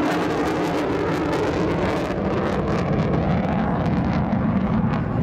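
Military fighter jet flying a display, its jet engines making a loud, steady noise.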